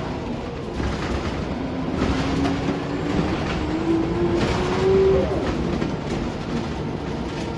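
Scania L94UB single-deck bus under way, heard from inside the cabin: a steady road rumble and rattle, with the drivetrain whine rising in pitch from about two seconds in to about five seconds in as the bus pulls, then dropping away.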